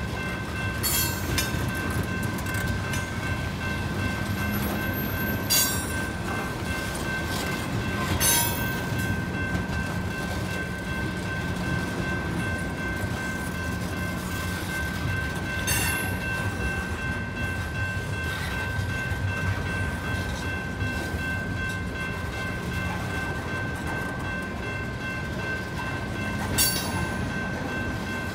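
Heavy loaded coal train rolling slowly past: a steady low rumble under a constant high whine, with a few sharp clicks and squeaks from the wheels on the rails.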